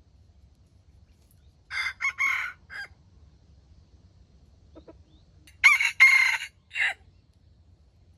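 A rooster crowing twice, each crow a short, clipped call of about a second in several parts; the second crow, about six seconds in, is louder.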